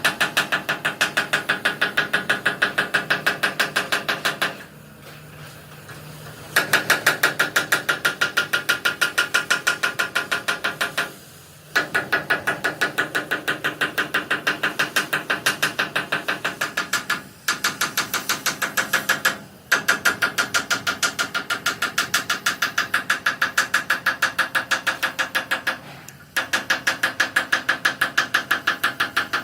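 A metalworking machine striking steel in a fast, even rhythm of about five metallic blows a second, stopping briefly several times and starting again.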